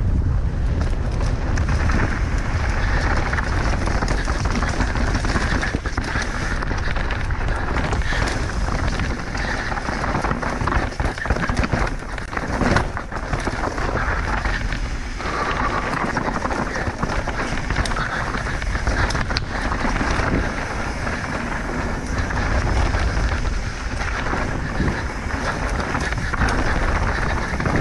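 Mountain bike descending a technical trail at race pace: a steady noise of tyres on dirt and rock, with constant clattering and knocking from the bike over roots and rocks.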